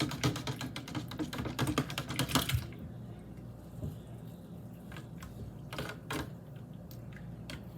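Spoon stirring hot chocolate fast in a cup, clinking rapidly against the sides, stopping about two and a half seconds in; a few single taps follow.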